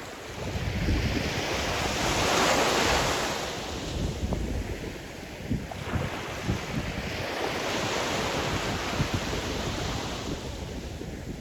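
Sea surf breaking on the shore, with a wave surging in about two seconds in and another around seven seconds. Wind buffets the microphone with low thumps throughout.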